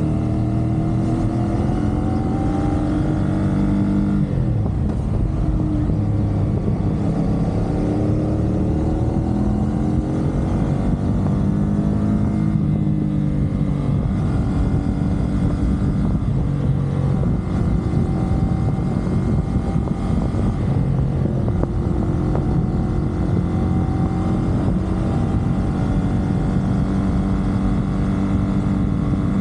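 CFMoto 450SR's parallel-twin engine running at expressway speed. The engine note drops and climbs again a few times as the throttle and revs change, over a steady rush of wind and road noise.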